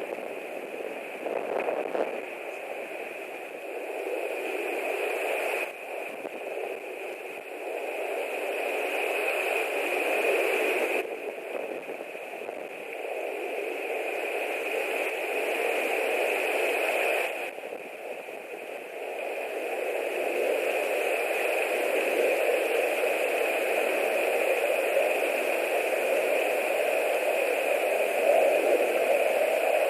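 Strong wind buffeting a nest camera's microphone, rising and falling in gusts and dropping off abruptly a few times, over a steady hiss.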